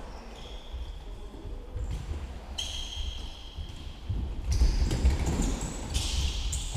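Indoor football game: irregular thuds of the ball and feet on a hard hall floor, with short high squeaks. It gets busier and louder about two-thirds of the way through.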